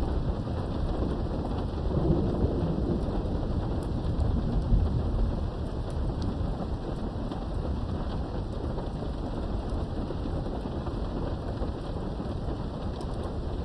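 Thunderstorm heard from indoors behind a window: steady rain with a low rumble of thunder that rolls through the first few seconds and fades about halfway through, leaving the rain alone.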